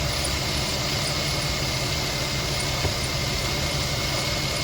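Infiniti FX35's 3.5-litre V6 idling steadily, its dried-out serpentine drive belt just sprayed with WD-40, so the belt squeak is reduced to a faint, changed chirp. The squeak is the sign of a worn, hardened belt due for replacement, not a bad bearing or tensioner.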